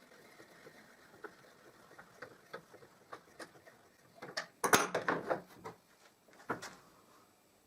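Irregular small metallic clicks and ticks as an 8 mm threaded rod is turned by hand into a smooth metal pipe, cutting its own thread. There is a denser run of louder clicks about four and a half to five and a half seconds in, and one more a second later.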